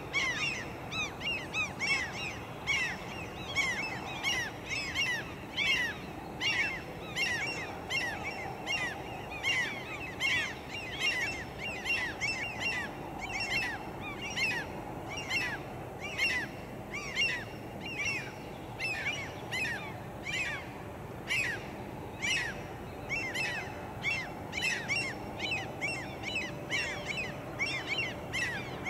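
A bird calling over and over, two or three short arching notes a second, over the low rumble of a slowly passing freight train.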